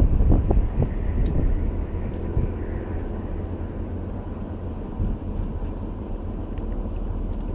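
Wind buffeting the microphone, a low rumble that gusts hardest in the first second and then settles to a steadier blow.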